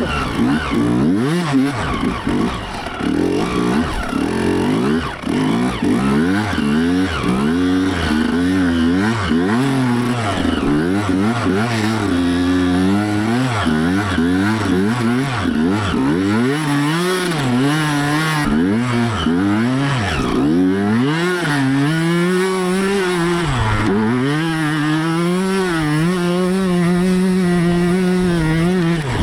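Dirt bike engine being ridden and revved, its pitch rising and falling over and over with the throttle, holding steadier near the end.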